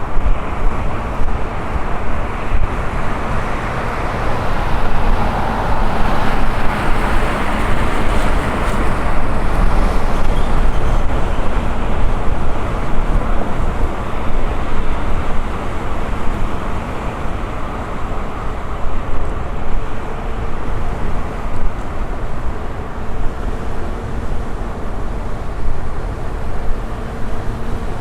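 Ride noise from an electric unicycle under way: a steady rush of wind on the microphone and rolling road noise, swelling for a few seconds around six to nine seconds in.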